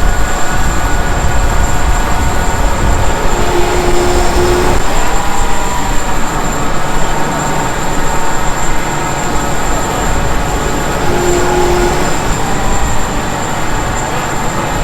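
Loud steady machinery noise with a low rumble, with two brief steady tones about 4 s and 11 s in.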